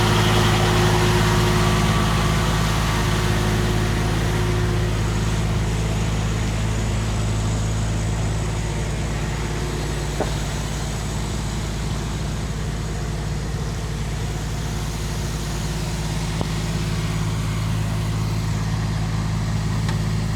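The homemade sawmill's engine idling steadily with a low, even hum. A higher hiss dies away over the first few seconds.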